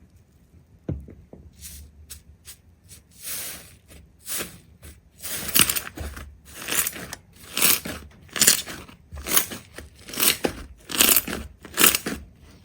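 Repeated short crunching strokes, about one a second, growing louder about halfway in.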